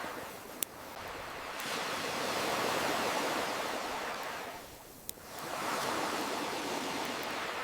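Ocean waves washing in and receding in slow swells, with a campfire's sharp crackles popping twice, once near the start and once about five seconds in.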